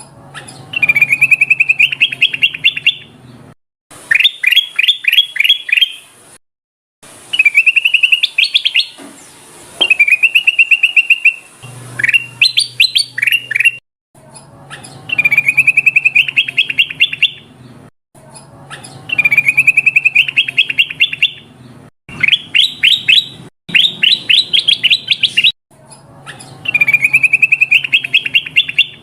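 Kutilang emas (bulbul) song played as a bird-trapping lure call: phrase after phrase of rapid chattering trills and warbled notes, repeated about every two to three seconds with short silent breaks between them.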